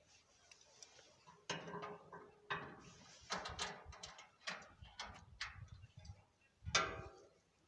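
Irregular metal clicks and clinks from hand work on a gate latch, as two nuts are fitted behind the latch tongue as spacers; a few clinks ring briefly.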